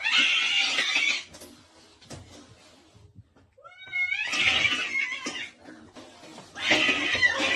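A cat crying out in three loud, harsh bursts, the middle one opening with a wavering cry that rises and falls.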